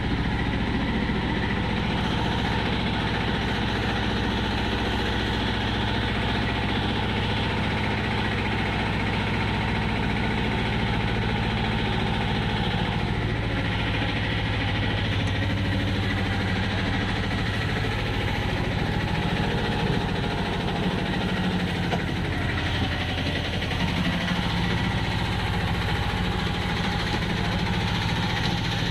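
Steady rumble and hum of a passenger train running, heard from inside the carriage.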